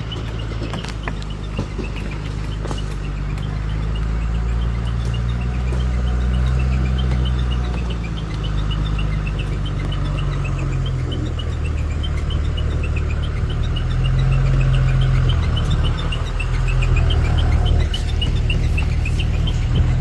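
Dumper truck's diesel engine running, its low hum shifting in pitch as the revs change and growing louder as it comes closer. A fast string of short high chirps rises and falls in pitch over it.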